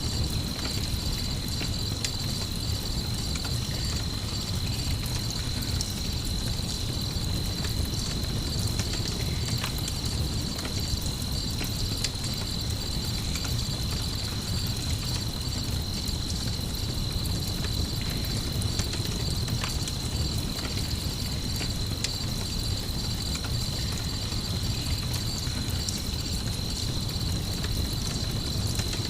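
Crickets chirping in a steady high trill over a crackling campfire, with scattered sharp pops and a constant low rumble underneath.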